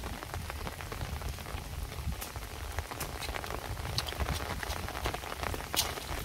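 Steady light rain falling on a flooded rice paddy: an even hiss dotted with scattered sharp drop ticks, over a low rumble.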